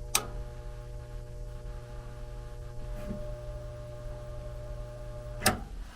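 Steady electrical hum from the gas furnace, with a low mains-frequency drone and several higher steady tones, starting with a sharp click just after the start and cut off by another click about five and a half seconds in.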